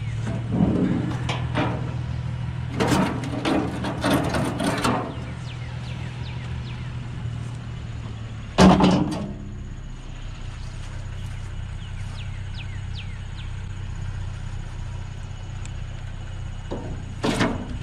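Scrap metal being handled: bursts of clanking and rattling, with one loud bang about nine seconds in, over a steady low hum.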